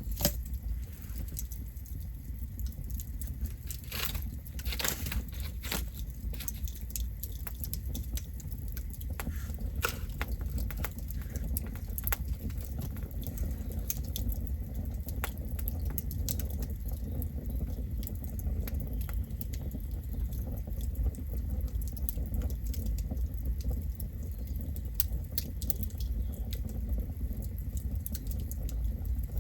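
Campfire burning, with a steady low rumble and frequent small crackles and pops of burning wood, a few louder pops about four to five seconds in.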